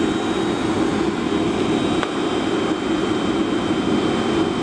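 Boeing 757 cabin noise: a steady, unchanging rush of engine and airflow with a faint high whine held over it.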